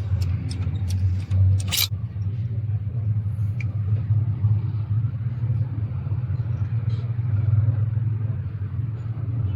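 Steady low hum of a running machine in a workshop, with a few light clicks in the first couple of seconds and a sharp click about two seconds in.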